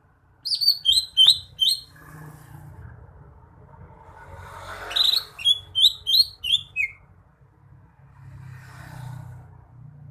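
Green leafbird (cucak hijau) singing two short bursts of quick, clear whistled notes, the second burst a few seconds after the first and a little longer, over a faint low background hum.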